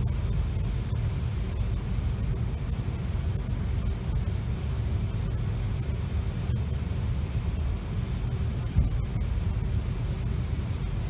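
Steady low rumble of a Virgin Pendolino electric train, with a faint steady hum and a couple of light clicks.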